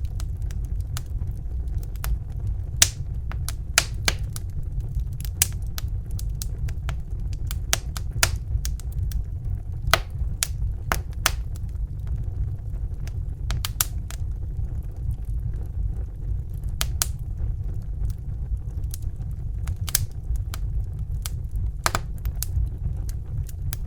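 Crackling fire: irregular sharp pops and snaps, some in quick clusters, over a steady low rumble.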